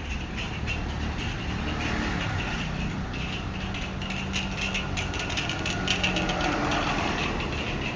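A motor vehicle's engine idling: a steady low hum that shifts in pitch about two seconds in.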